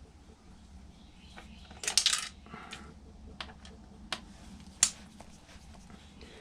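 Light clicks and clinks of hand tools and small parts while a karaoke machine is taken apart for scrap: a short rattle about two seconds in, then a few single sharp ticks.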